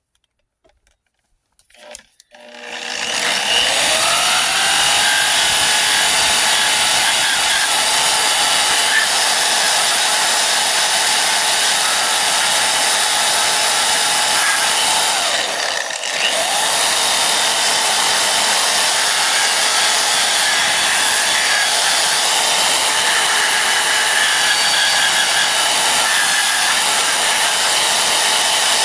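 Electric burnishing tool with a paint-stripping wheel spinning up about two and a half seconds in and running steadily as it strips paint from steel truck body panels. Around the middle it slows briefly and comes back up to speed.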